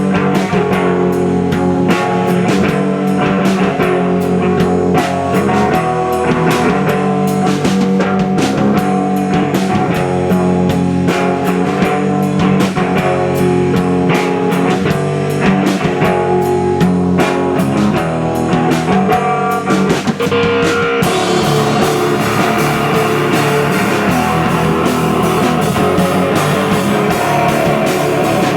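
Rock band playing live, with electric guitars and a drum kit. About two-thirds of the way through, the sound turns brighter and denser, with a noisier wash over the top.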